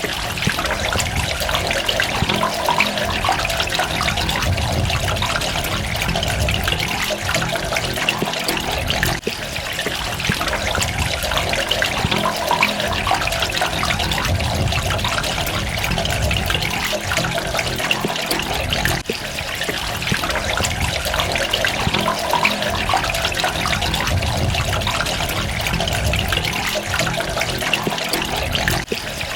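Water running and trickling steadily, a continuous splashing flow.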